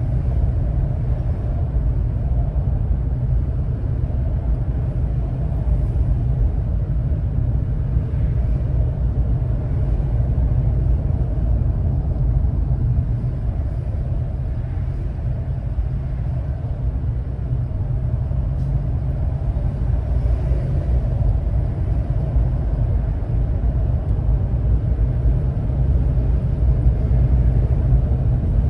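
Steady low rumble of a car driving, engine and road noise, with no sharp events or changes in pitch.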